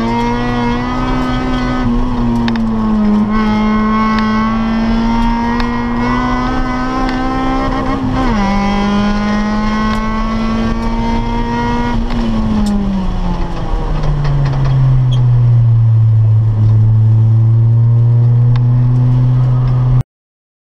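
1997 Acura Integra GS-R's 1.8-litre VTEC four-cylinder, fitted with a cold air intake and full exhaust, heard from inside the cabin running hard at high, fairly steady revs with a brief dip in pitch. About twelve seconds in the revs fall away, and it settles at a lower, steady pitch until the sound cuts off abruptly near the end.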